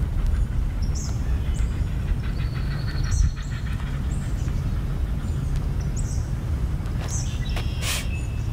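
Birds chirping outdoors, a string of short, high, falling notes repeated every second or two, with a high trill in the middle, over a steady low rumble.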